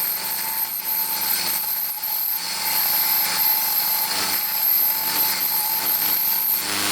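A 10-inch benchtop bandsaw running steadily and cutting through a wooden block, a constant motor hum with a steady whine over the noise of the blade in the wood.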